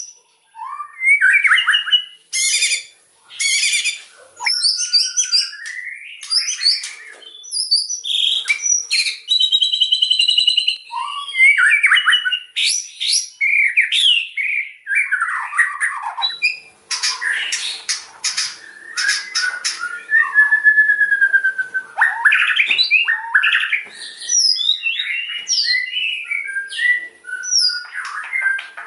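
White-rumped shama (murai batu) singing loudly: a continuous run of varied phrases of clear whistles, quick sweeping notes, fast trills and harsh buzzy notes, separated by short pauses.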